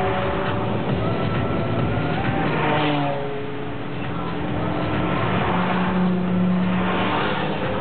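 Car engine running under load and revving, its pitch rising and falling as the car speeds up and eases off, heard from inside the car's cabin.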